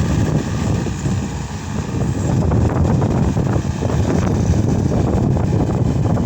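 Case SR200 skid steer loader's diesel engine running steadily, with wind buffeting the microphone. The sound dips briefly about a second and a half in, then steadies.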